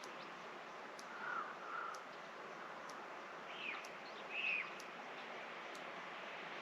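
Birds calling over a steady outdoor hiss: two short, lower notes just over a second in, then two louder, higher arching calls around the middle.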